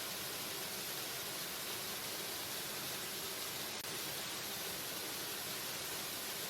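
Waterfall: a steady, even rush of falling water, with a momentary dropout a little past halfway.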